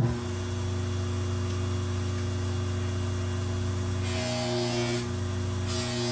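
Electric polishing machine switching on and running steadily at high speed (about 7,000 RPM), giving a steady motor hum. About four seconds in, a knife blade is pressed against the polishing wheel, adding a hissing rub. The rub stops briefly and starts again near the end.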